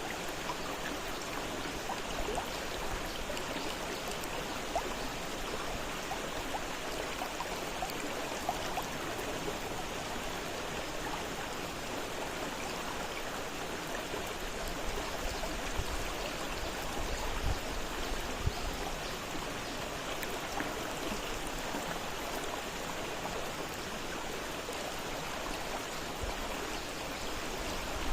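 Fast-flowing river water rushing steadily, with many small splashes and gurgles.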